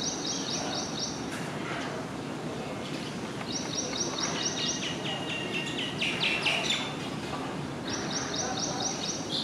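Green bee-eaters calling: three bouts of rapid, evenly repeated short high notes. In the middle bout a second, lower-pitched series overlaps the first, as if two birds call together. Steady background noise lies underneath.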